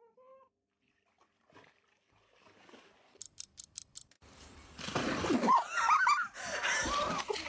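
An animal giving several short rising-and-falling cries over a noisy background, starting a little past halfway, after a quick run of about five high clicks.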